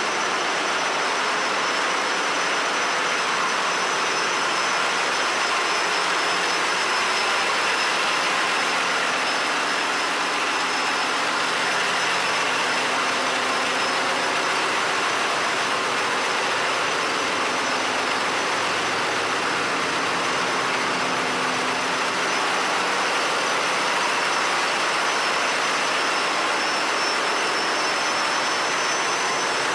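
Ship's engine-room machinery running: a loud, steady roar with a thin high whine held throughout.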